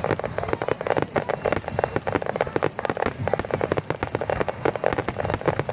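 Fireworks crackling: a dense, unbroken run of rapid small pops and bangs.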